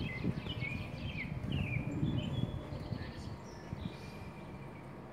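Small birds chirping in a quick series of short notes, thinning out after about two and a half seconds, over a low outdoor rumble that eases at the same point.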